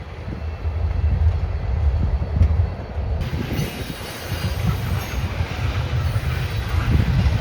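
Freight train rolling past: a steady low rumble of locomotives and cars with wheel and rail noise. The sound changes abruptly about three seconds in, with more high-pitched hiss.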